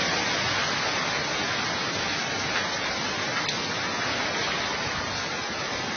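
Hurricane rain and wind, a steady rushing hiss with no breaks.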